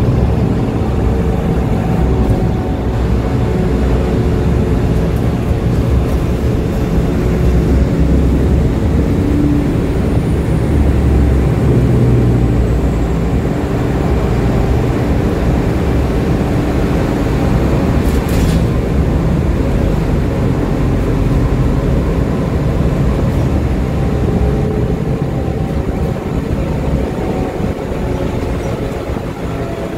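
HeuliezBus GX Linium H hybrid city bus running, its Iveco Tector 7 diesel and BAE Systems electric drive giving a steady low drone with faint held whining tones. A single short click about 18 seconds in.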